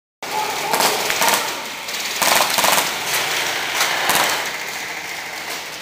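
Airsoft guns firing in short rapid bursts, the densest volley between about two and three seconds in, over a steady noisy background.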